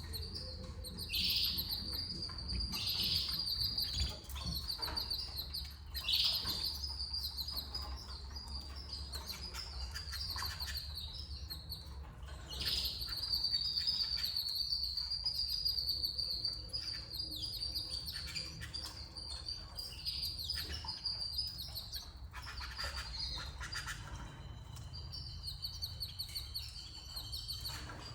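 Canary singing in long rapid trills and rolls with a few quick downward sweeps, over a low steady hum.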